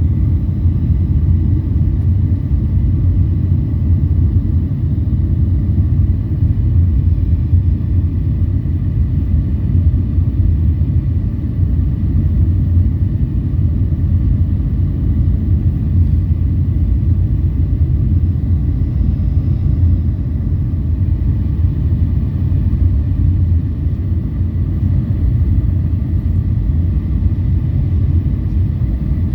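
Steady low rumble of engine and airflow noise inside a jet airliner's cabin on approach, with a faint steady high whine above it.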